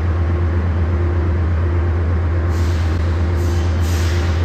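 Steady low rumble of a train, with three short hisses of air in the second half.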